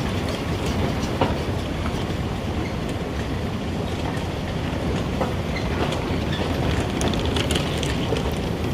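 Steady rumble of a moving vehicle, with scattered light clicks and knocks.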